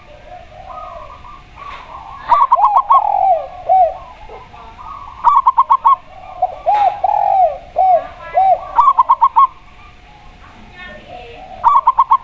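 Spotted dove and zebra dove cooing against each other: bursts of four or five quick, clipped notes about every three seconds, with lower, drawn-out arched coos in between.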